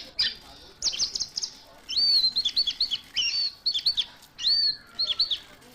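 Orange-headed thrush singing: several bursts of quick, high notes that slide up and down.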